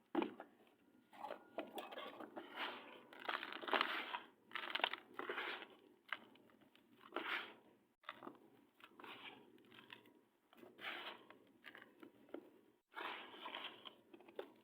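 Clumps of black sand crumbling and crunching in a run of irregular crackly bursts with short pauses between them.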